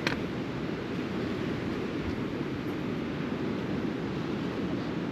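Steady wash of sea surf on a rocky shore, with wind on the microphone and a single short tick at the very start.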